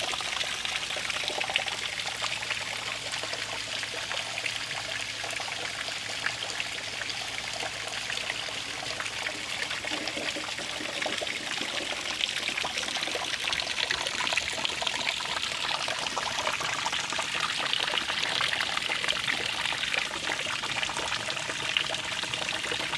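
Running water trickling and splashing steadily, as of a small stream.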